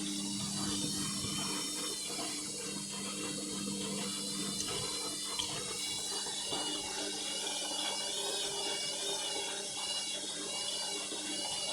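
Indesit MTWC71252WUK washing machine distributing its load after the final rinse. The drum motor whines at a wavering pitch as the drum speed shifts, over a steady hum and the sound of water in the machine.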